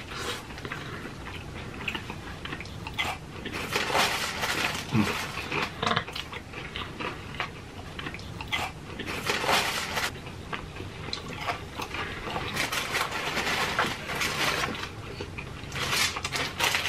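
Close chewing and biting of a fried chicken sandwich and other fried food, with irregular crisp crunches throughout.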